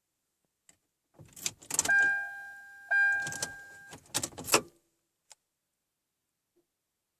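Car keys jangling and clicking at the ignition of a Kia Sedona minivan, with a steady electronic warning tone from the dashboard for about two seconds; the engine does not start, the minivan's intermittent no-start fault.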